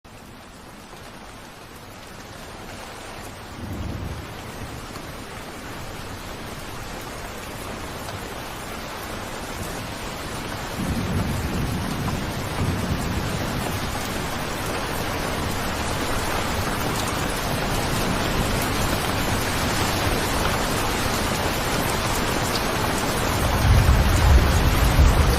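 Steady rain, growing gradually louder, with low rumbles swelling about four seconds in, again around eleven seconds, and near the end.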